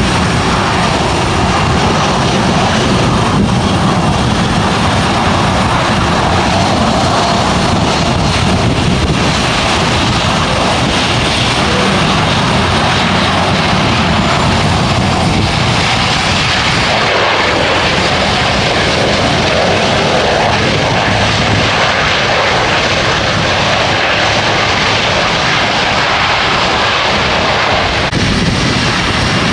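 Jet airliner's engines running loud and steady, the tone shifting higher about halfway through as the aircraft moves past.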